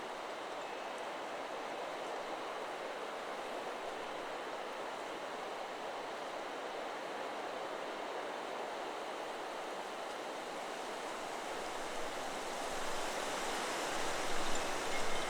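Wind rushing steadily through forest trees, swelling in gusts near the end.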